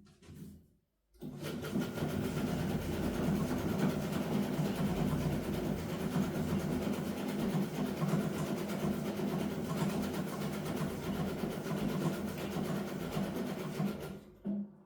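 Electric sewing machine running continuously through a seam at a steady speed with a motor hum and fast needle chatter. It starts about a second in and stops near the end. The machine had been sewing stiffly and has been oiled.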